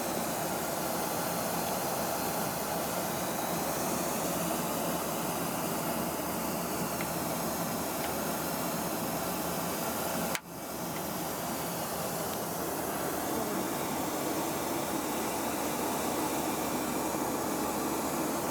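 Steady rushing cabin noise inside a Boeing 737-800 airliner, the even sound of airflow and engines. It drops out for an instant about ten seconds in, then returns.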